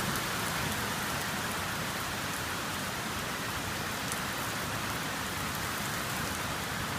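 Steady rain falling during a severe thunderstorm: an even, unbroken hiss.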